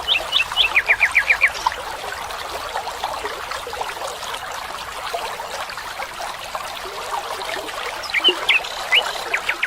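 Birds calling over the steady rush of running water: a quick series of about half a dozen high chirps in the first second and a half, then more chirps near the end.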